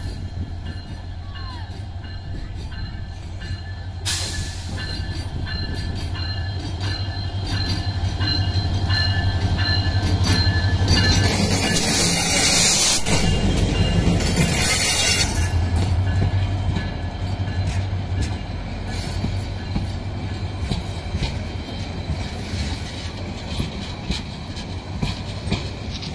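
Diesel locomotive of a passenger train passing slowly with its engine running, then its coaches rolling by with clicking wheels and a high metallic squeal from the wheels, loudest around the middle.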